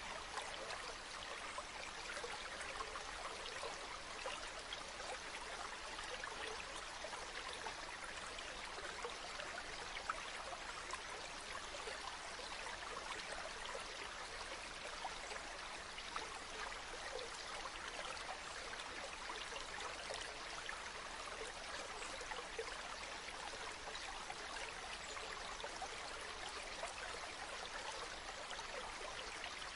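Water from a natural spring running steadily, a continuous even rush dotted with many small splashes and trickles.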